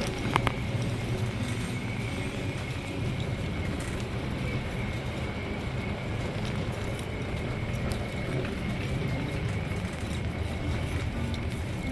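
Steady supermarket background noise: a low rumble with a faint high-pitched hum, and a couple of light clicks about half a second in.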